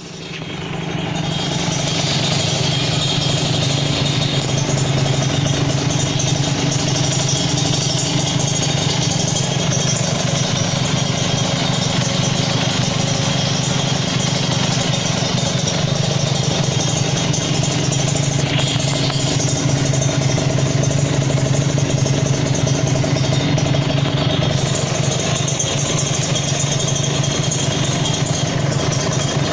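Two-stroke Kawasaki Ninja R single-cylinder engine idling steadily through an SDM Racing Bluemoon aftermarket expansion-chamber exhaust.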